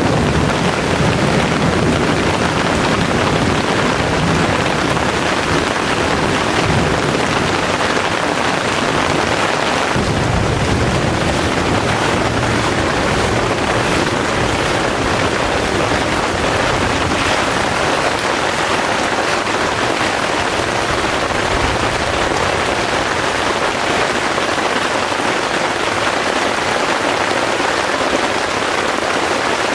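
Heavy rain pouring steadily, with low rumbles of thunder near the start and again about a third of the way in.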